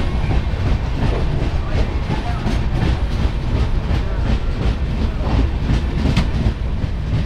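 Passenger train running along the track, heard on board: a steady low rumble of wheels on rail with scattered light clicks from the track, one sharper click about six seconds in.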